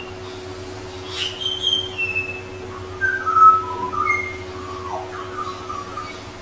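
Pied butcherbird singing: a string of clear, flute-like whistled notes that mostly step down in pitch, one of them sliding downward near the end.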